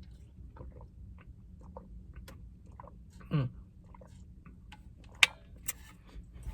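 Close-miked chewing and soft wet mouth clicks from eating a teriyaki chicken and rice bowl. There is a brief hummed "mm" about three seconds in and a couple of sharper clicks past the five-second mark.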